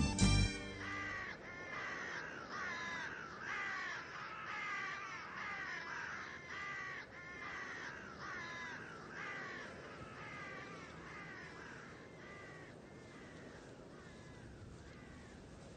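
Birds calling in a long run of short calls that fall in pitch, about two a second, growing fainter until they fade out.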